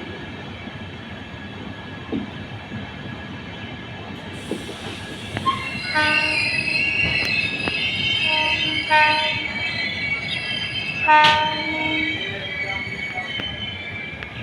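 Passenger train running, its wheels squealing high on the rails through the second half, with three short horn blasts, the last one the loudest.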